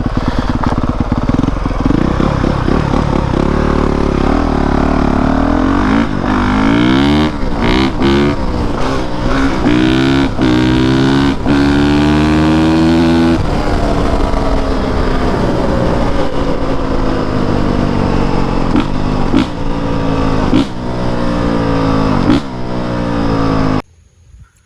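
Honda CRF450R's single-cylinder four-stroke engine revving under acceleration, its pitch climbing and falling again and again as the throttle is worked through the gears. The sound cuts off abruptly near the end.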